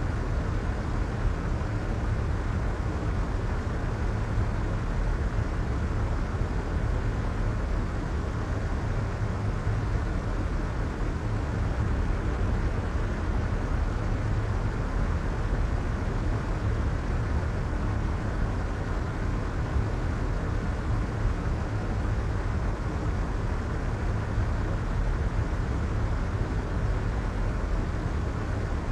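Soft white noise, a steady, unchanging hiss heavier in the low end, with the highs rolled off above about 2 kHz.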